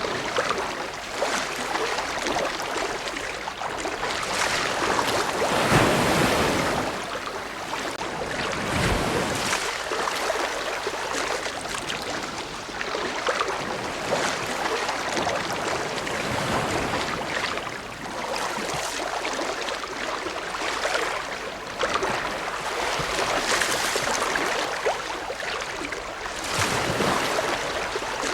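Ocean waves breaking and washing on a shore, swelling and easing every few seconds, with the loudest surge about six seconds in.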